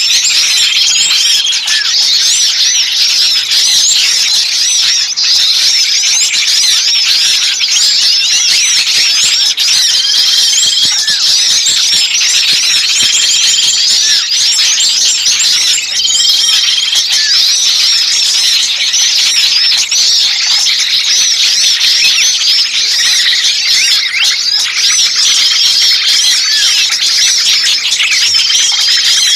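Dense, noisy chorus of many small songbirds chirping and calling over one another, with a short steady note recurring several times. These are agitated, screaming calls as of a trapped bird, played as a lure to draw other birds in.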